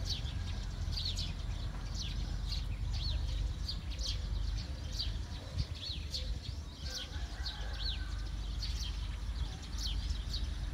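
Small birds chirping: short, high, arching calls repeated about once or twice a second, over a steady low rumble.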